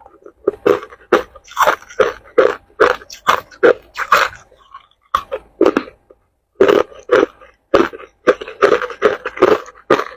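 Ice being chewed close to the microphone: a run of loud, sharp crunches, about two to three a second, with a short pause about halfway through before the chewing starts again.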